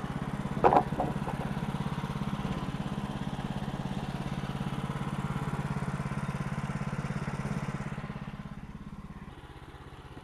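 Small gasoline engine of a portable sawmill running steadily, with a sharp knock about a second in. Near the end it drops to a quieter, lower idle.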